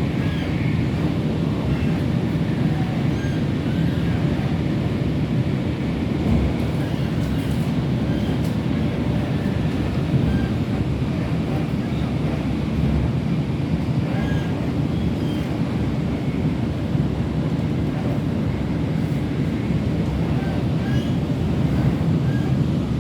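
Hong Kong MTR train running at speed, heard from inside the carriage as a steady low rumble with faint brief squeaks over it.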